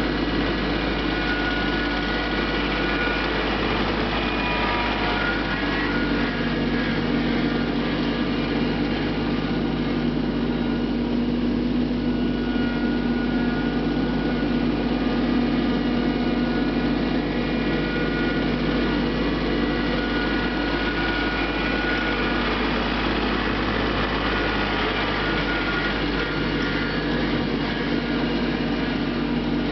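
Mahindra Max 24 compact tractor's diesel engine running steadily under work, a constant engine tone without pauses.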